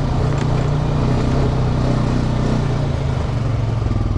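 Off-road vehicle engine running steadily on the trail; about three seconds in its note drops to a slower, evenly pulsing beat as the revs come down.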